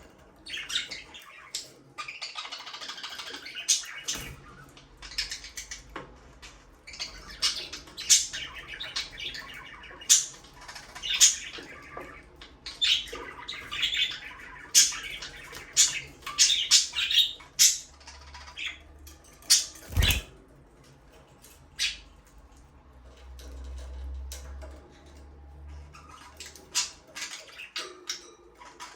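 Budgerigars chirping and chattering: many short, high calls in quick succession, thinning out in the last third. A single sharp knock sounds about twenty seconds in.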